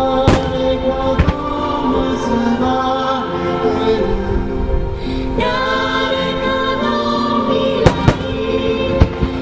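A song with singing over held chords, with sharp firework bangs from a music-synchronised starmine: two in the first second and a half and three close together near the end.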